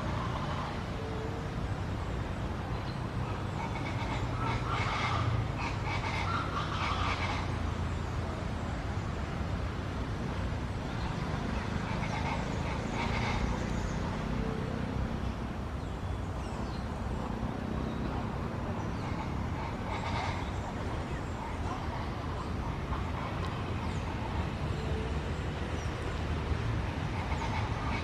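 Roadside hawks calling: drawn-out, nasal screams repeated in several bouts, over a steady low rumble.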